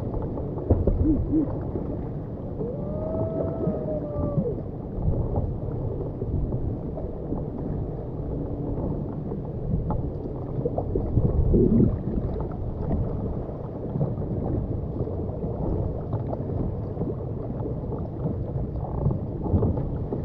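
Muffled water sloshing and splashing around a kayak, with scattered dull knocks and a brief wavering tone about three seconds in.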